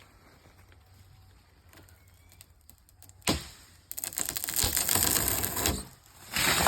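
Branches and foliage crackling and crashing: a sudden crack about three seconds in, then about two seconds of dense, rapid crackling, and another loud burst near the end.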